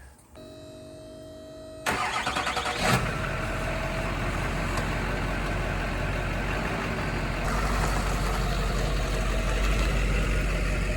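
Chevrolet Duramax turbo-diesel V8 cranked and firing up about two seconds in, then settling into a steady idle with a strong low rumble. A short steady tone is heard just before it starts.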